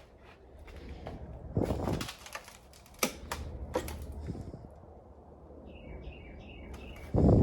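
Scattered footfalls and knocks on ground and debris, the loudest near the end, with a quick run of four short bird chirps about six seconds in.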